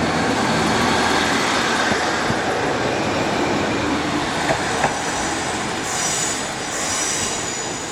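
Class 155 diesel multiple unit pulling out of the station, its engines and wheels running steadily, with brief high wheel squeals around six and seven seconds in.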